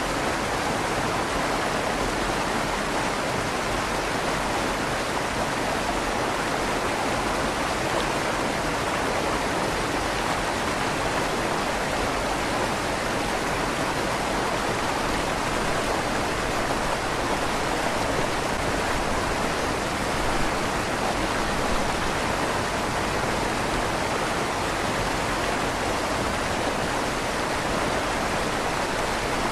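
River water flowing steadily under a stone bridge: a continuous even rushing, with a slight echo off the inside of the stone tunnel.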